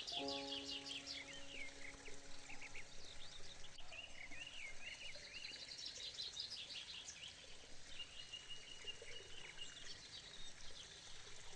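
Songbirds chirping and trilling, many short calls overlapping, with one held whistled note about two-thirds of the way through. A few sustained mallet-percussion notes ring and fade out in the first two seconds or so.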